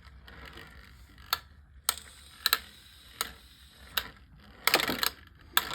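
Two Beyblade Micros spinning tops clashing in a small stadium: sharp plastic clacks as they strike each other and the walls, a few spaced about half a second to a second apart, then a quick flurry of hits near the end.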